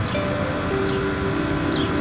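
Steady low background rumble of an outdoor place, with a few short high chirps and some drawn-out mid-pitched tones over it.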